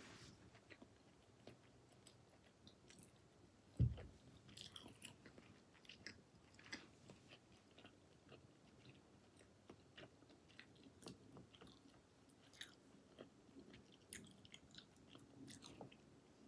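A person chewing sashimi: faint, scattered soft clicks of the mouth, with one dull thump about four seconds in.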